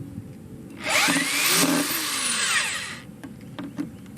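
Power drill driving a screw into a wooden board for about two seconds, its whine rising and then falling in pitch, followed by a few light clicks.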